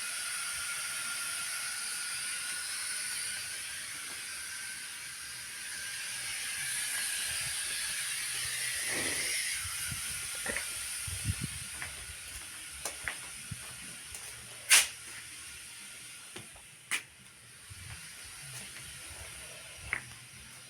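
Pot of cassava boiling over a wood fire, hissing steadily with steam, the hiss easing about halfway through. A few sharp pops come in the second half, the loudest about fifteen seconds in.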